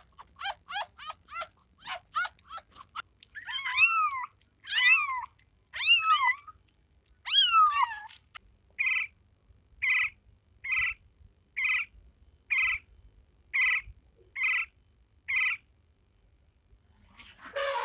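A cat meowing. It opens with a quick run of short, rising mews and then gives four long, drawn-out meows that bend in pitch. These are followed by eight short, evenly spaced calls of even pitch.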